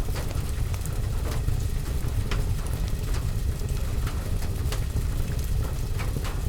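Rain on a window, a steady hiss over a deep, constant low rumble, mixed with a wood fire crackling in scattered, irregular sharp pops.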